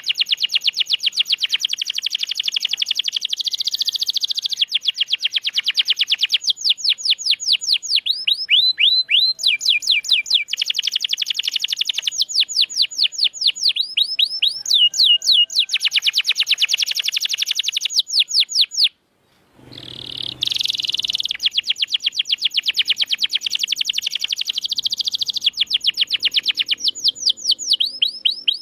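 Domestic canary singing in long, fast rolling trills and runs of quick down-slurred whistled notes, high-pitched. The song cuts out abruptly for about half a second past the middle, then starts again.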